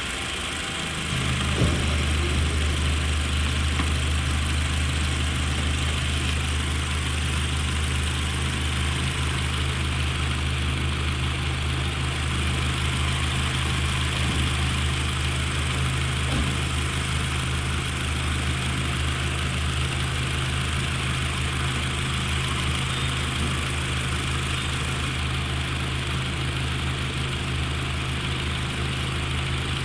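Toyota RAV4 engine idling steadily, an engine the owner suspects of misfiring. It gets louder about a second in and then holds an even hum.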